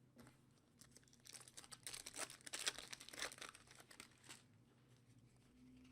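Plastic wrapper of a trading-card pack crinkling and tearing as the pack is ripped open. A quick, dense run of crackles starts about a second in and stops after about three seconds.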